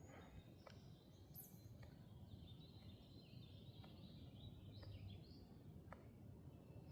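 Near silence outdoors, with faint bird chirps in the middle stretch and a few faint ticks.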